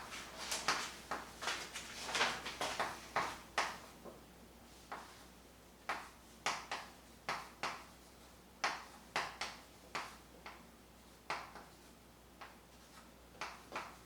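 A pen writing on paper: an irregular run of short scratches and taps, thick for the first few seconds, then sparser strokes every half second or so.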